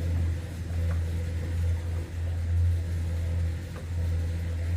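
An engine or motor running steadily with a low drone that swells and eases slightly every second or so, and a few faint clicks.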